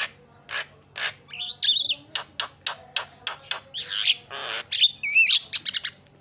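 Javan myna (jalak kebo) calling in a rapid string of harsh squawks and short chattering notes, with wavering whistled notes near the end.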